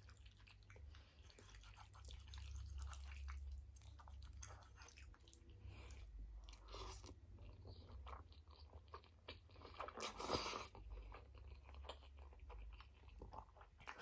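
Close-miked chewing of spaghetti: soft, irregular wet mouth clicks and smacks, with a louder bite or slurp about ten seconds in.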